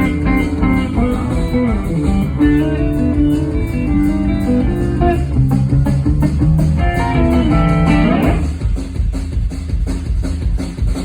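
Amplified electric guitar playing fast runs of lead notes with bends and slides over a steady band rhythm of drums and bass. About eight seconds in the guitar drops out, leaving the drums and bass going.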